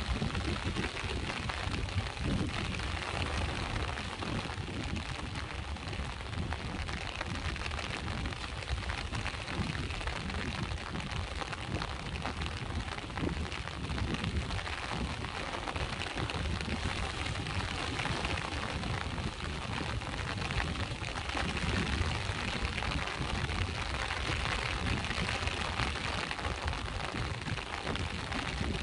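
Rain falling together with sea waves washing on the shore: a steady rushing noise with a deep low rumble underneath.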